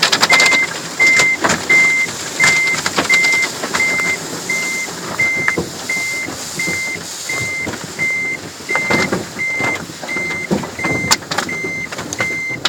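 Automatic car wash brushes scrubbing against the car, heard from inside the cabin as a loud swishing with irregular slaps and knocks. A single high beep repeats evenly about one and a half times a second.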